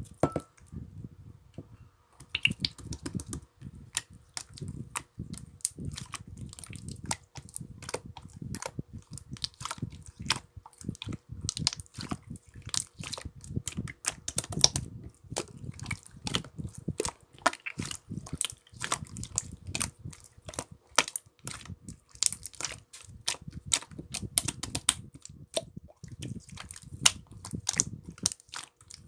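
Slime being squeezed and poked by hand, giving a dense run of irregular sharp clicks and pops over a soft low squishing.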